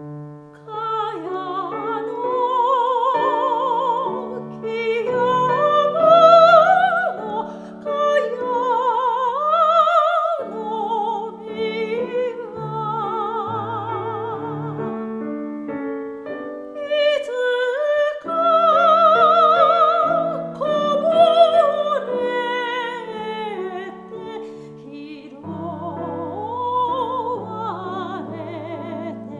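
Soprano singing a classical art song with wide vibrato, accompanied by piano.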